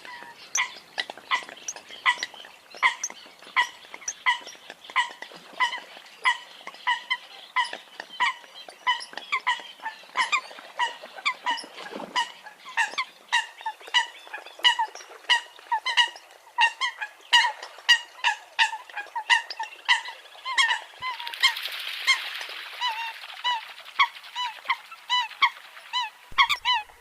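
Eurasian coots calling: a long run of short, high, pitched call notes, about two to three a second. A hiss rises under the calls for a couple of seconds near the end.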